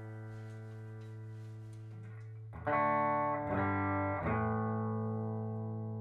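Clean electric guitar, a PRS SE Custom 24, played through a Beautiful Noise When the Sun Explodes reverb pedal. A held chord rings out and fades. About two and a half seconds in a new chord is struck, then it changes twice more within the next two seconds, each chord ringing on with long reverb.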